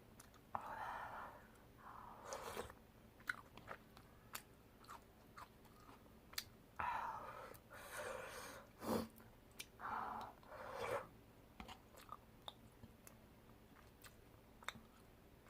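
Close-miked eating of tteokbokki: chewing with many small wet mouth clicks, broken by about five longer, louder noisy bursts.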